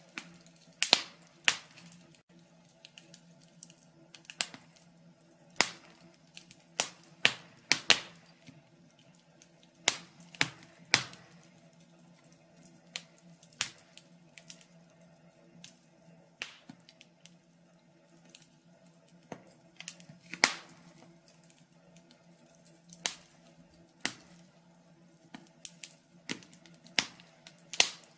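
Wood fire crackling: irregular sharp pops and snaps from the burning logs, some single and some in quick clusters, over a faint steady low hum.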